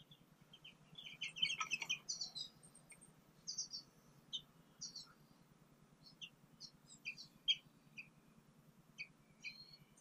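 Small songbirds chirping: a quick run of high chirps about a second in, then scattered single chirps.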